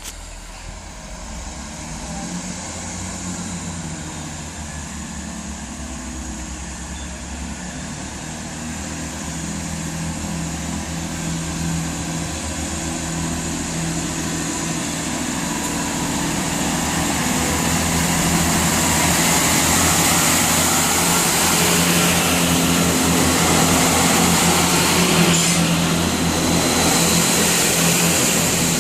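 Diesel train engines running with a steady low hum, growing steadily louder, with a hiss that rises with them.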